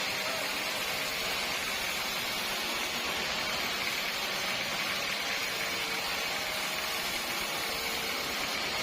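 Steady machine noise: an even hiss with a faint hum underneath, unchanging throughout.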